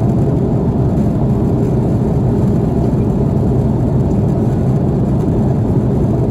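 Steady engine and airflow drone inside the cabin of an Airbus A330-300 airliner, a low even rumble that does not change.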